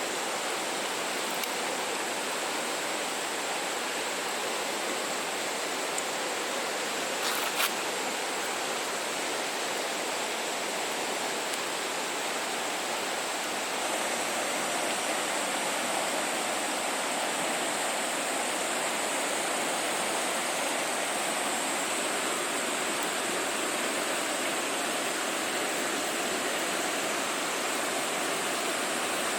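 Steady rushing, hiss-like noise, a little louder from about halfway through, with one sharp click a third of the way in.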